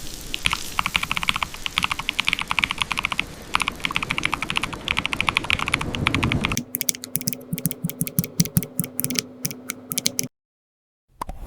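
Typing on a computer keyboard: fast, dense runs of key clicks. About six and a half seconds in, the sound changes to sharper, more separate keystrokes over a steady low hum. These cut off to silence a few seconds later, and keystrokes start again just before the end.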